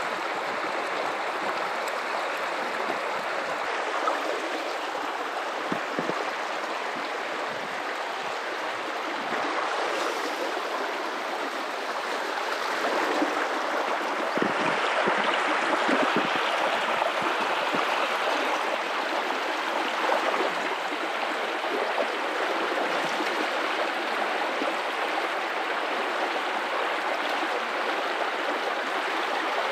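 River water running and splashing over rocks, with a steady rush and small bubbling splashes, swelling a little louder for a few seconds in the middle.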